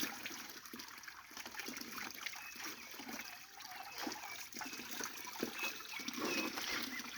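Small stream trickling, with light irregular splashes of water.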